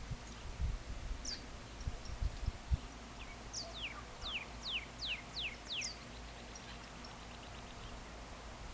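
A bird singing a quick series of about five sharply down-slurred whistles, each falling from high to middle pitch, followed by a faint short trill. Low rumbling bumps of wind on the microphone come in the first few seconds.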